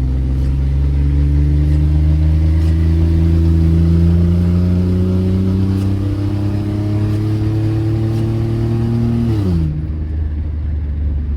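Car engine pulling under steady acceleration, its pitch climbing slowly, then dropping sharply about nine and a half seconds in.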